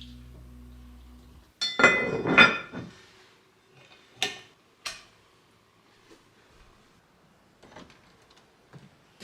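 Kitchenware clattering: a loud jumble of ringing metal or crockery knocks for about a second, then two single sharp clinks and a few faint knocks.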